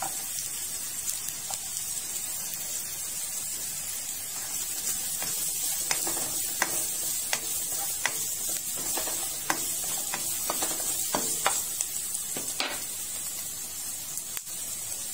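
Chopped onion and ginger sizzling in a hot nonstick frying pan. From about six seconds in to about twelve, a spatula clicks and scrapes against the pan as the pieces are stirred.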